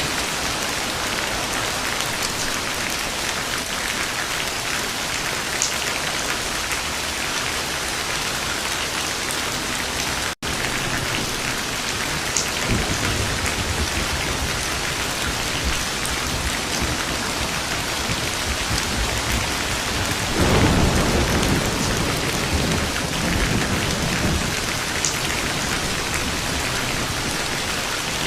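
Steady heavy rain falling, with thunder rumbling low in the background. The thunder comes in swells, the loudest about two-thirds of the way through. There is a brief dropout about a third of the way in.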